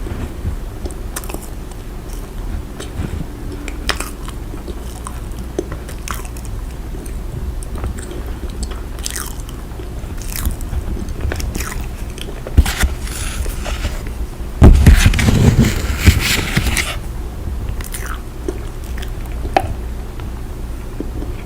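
Cornstarch being pressed and squeezed, giving short crunching squeaks at irregular intervals, with a louder, denser run of crunching about two-thirds of the way through.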